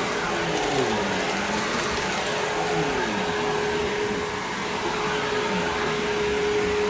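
Simplicity Symmetry upright vacuum running: a steady motor whine with a lower hum that slides up and down in pitch again and again.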